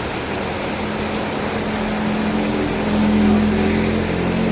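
Heavy rain falling steadily, with a vehicle's engine hum over it that grows louder to a peak about three seconds in and eases a little toward the end.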